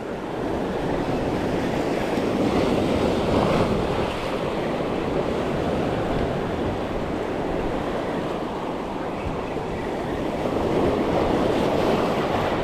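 Ocean surf washing against the shore, steady, swelling a little about three seconds in and again near the end.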